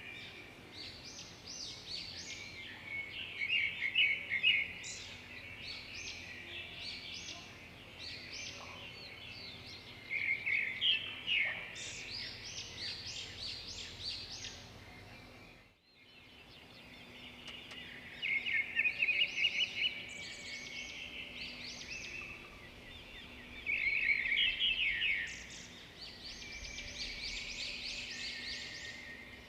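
Several birds singing and chirping, with quick, overlapping calls and trills over faint background hiss. The sound dips out briefly about halfway through.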